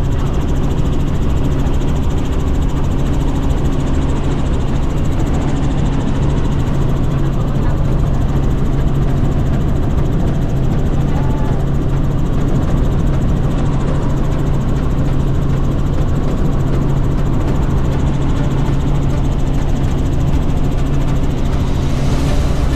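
Helicopter engine and rotors running steadily in flight: a loud, constant low drone with a steady hum that does not change.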